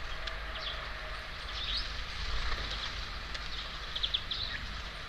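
Small birds calling at a feeder: many short, high chirps and call notes, scattered and overlapping, over a steady low rumble.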